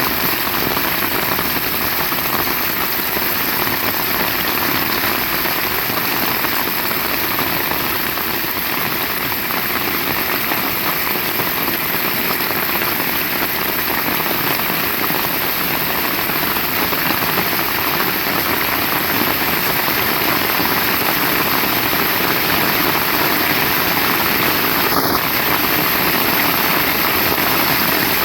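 Heavy rain falling steadily, an even, unbroken rush of noise.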